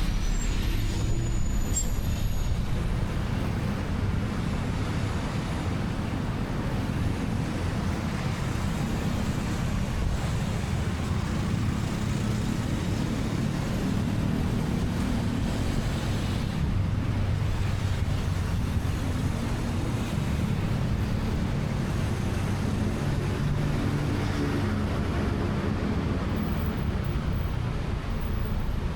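Motorcycle engine running with steady road and traffic noise around it, heard from the pillion seat of a moving motorcycle taxi. The engine's pitch drifts up and down.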